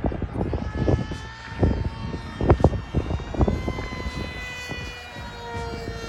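Small electric motor and pusher propeller of a foam-board RC plane whining in flight, its pitch sliding slowly up and down as the plane moves and the throttle changes. Irregular low rumbles of wind on the microphone come and go under it.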